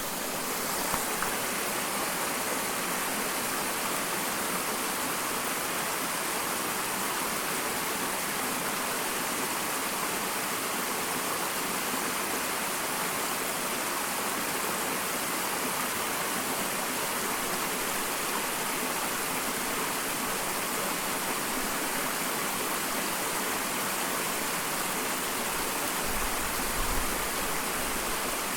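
Small waterfall: a steady, even rush of falling and splashing water, with a brief low rumble near the end.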